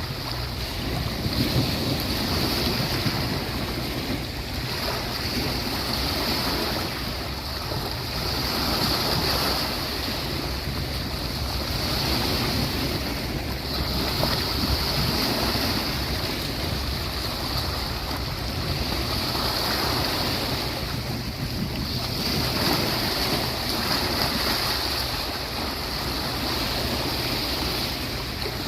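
Sea waves washing onto the beach, rising and falling in a slow swell every few seconds over a steady high hiss, with a low rumble underneath.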